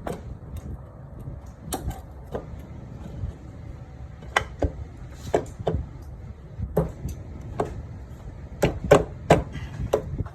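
Irregular sharp knocks and clicks of hard objects, coming closer together near the end, over a steady low rumble.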